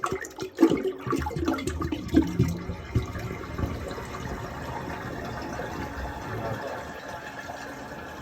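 Sewer water gushing out of a pipe. It sputters and splashes unevenly for about three seconds, then settles into a steady, even flow, a sign that the blocked line is clear and running at full pressure.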